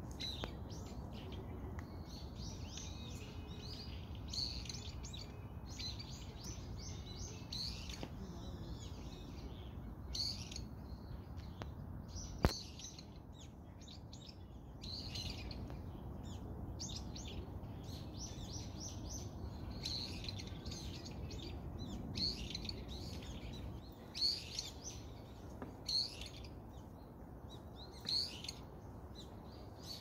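Small birds chirping and chattering in a tree, short calls coming in quick runs one after another, over a low steady background rumble. A single sharp click stands out about twelve seconds in.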